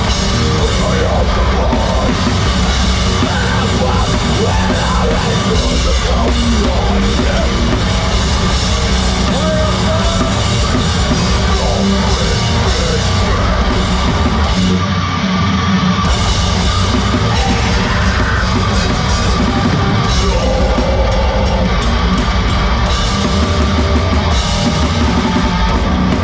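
Heavy rock band playing live and loud, a drum kit driving it, with a brief break in the music about fifteen seconds in.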